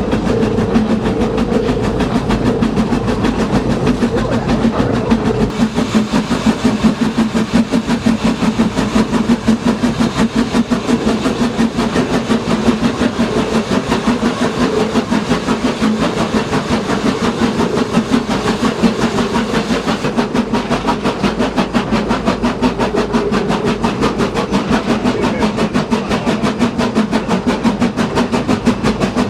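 Train running along the track: a rapid, even clatter over a steady hum.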